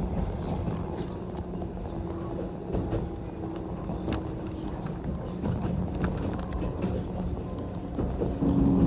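Running noise of a JR 185 series electric multiple unit heard from inside the car: a steady rumble with a faint steady tone, and a few sharp clicks about four and six seconds in.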